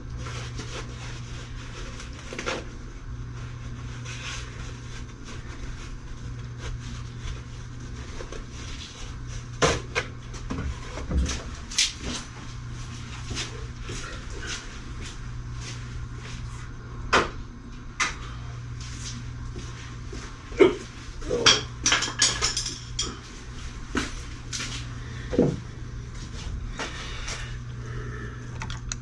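Scattered clicks, knocks and light clatter of objects being handled, coming more often and louder in the second half, over a steady low hum.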